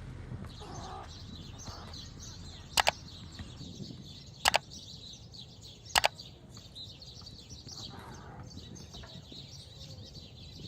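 Small birds chirping steadily in the background, broken by three sharp double clicks about a second and a half apart, which are the loudest sounds.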